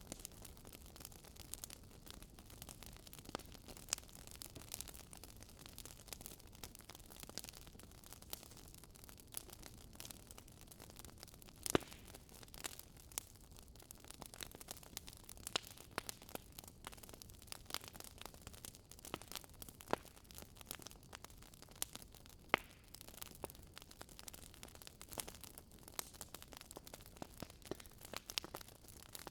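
Wood fire burning in a fireplace: irregular crackles and pops over a steady soft hiss, the loudest pop a little before halfway.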